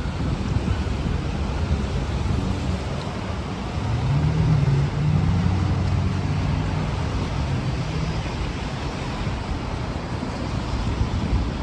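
Street traffic in heavy rain: a steady hiss of rain and wet road noise, with a vehicle's low engine hum swelling about four seconds in and fading away by about eight seconds as it passes.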